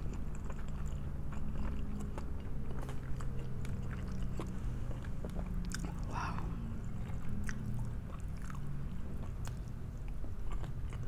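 A person chewing and biting food, with frequent small wet mouth clicks and smacks, over a steady low hum.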